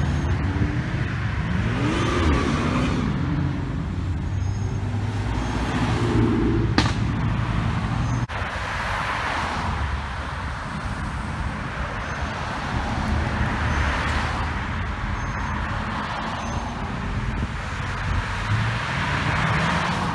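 Cars driving out one after another, engines running and tyre noise swelling and fading as each goes by. About two seconds in one engine revs up and back down. A single sharp crack comes near seven seconds.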